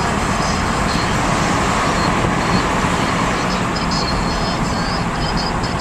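Steady road and engine noise of a moving car, heard from inside the cabin, with no clear revving.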